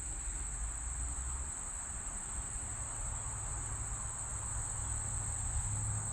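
Insects, such as crickets, keep up a steady high-pitched chorus, with a low rumble underneath.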